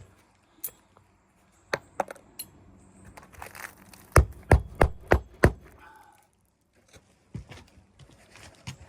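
Five quick, sharp hammer blows, about three a second, a little past the middle, with scattered lighter clicks and knocks before them.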